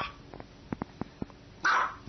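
Small dog barking: one short, sharp bark ends just as the sound begins and another comes about a second and a half later. A few light clicks fall in between.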